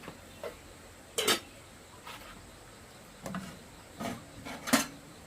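A series of irregular knocks and clatters from hard objects being handled, about eight in all, the loudest near the end.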